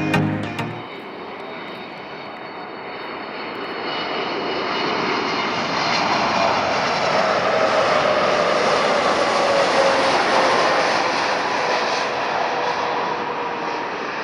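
Boeing 747-8 passing with its four GEnx turbofans running. The jet noise swells to a peak about two-thirds of the way through and then eases off, with a whine that falls slowly in pitch.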